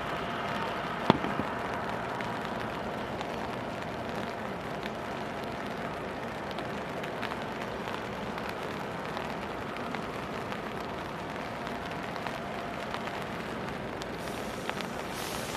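Heavy rain falling steadily, with a faint steady whine underneath and one sharp knock about a second in.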